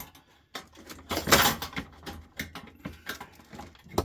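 Knocks, clicks and scraping from the metal and plastic parts of a light fixture being worked apart by hand, with a louder scraping noise about a second in.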